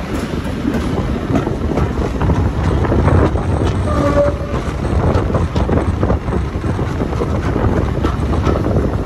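Heritage train running past a yard, heard from a coach window just behind a Class 52 'Western' diesel-hydraulic locomotive: a steady low rumble from the locomotive with wheels clicking over rail joints and pointwork.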